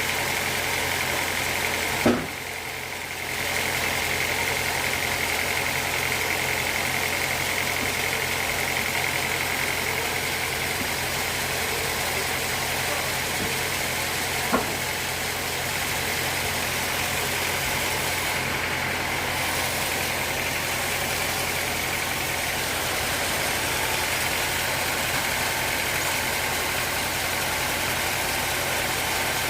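Sawmill machinery running steadily with a constant high whine over its drone, and a sharp knock about two seconds in and another around halfway.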